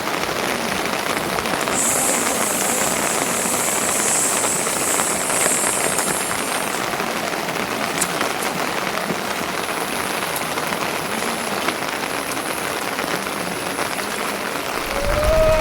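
Steady rain falling, a dense patter of drops, with a higher hiss from about two seconds in to about seven. Near the end a sheep bleats once.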